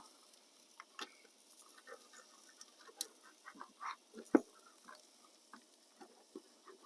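A knife and fork cutting up a cooked steak: scattered light taps, clicks and scrapes, with one sharper click about four seconds in.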